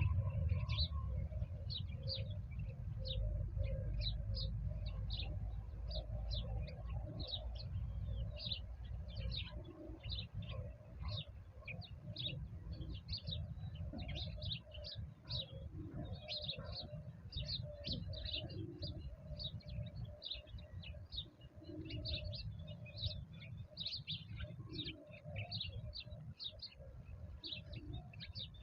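Small birds chirping continuously in quick, overlapping short notes, with a few low calls now and then and a steady low rumble underneath.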